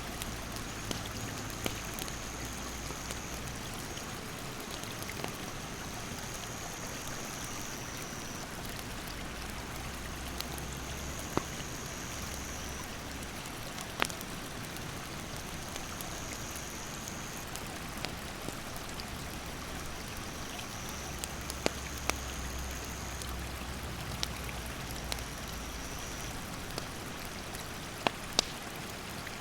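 Steady rush of a rocky stream's rapids, with the scattered sharp crackles and pops of a wood campfire. An insect trills high in repeated stretches of a couple of seconds.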